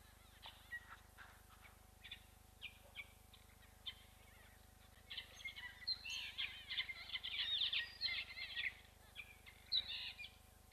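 Small birds chirping and twittering, scattered single chirps at first, then a dense run of quick chatter from about five to nine seconds in.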